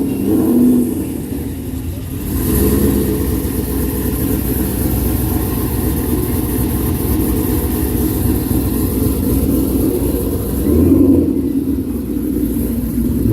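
Car engines running and revving, with louder revs near the start and again near the end.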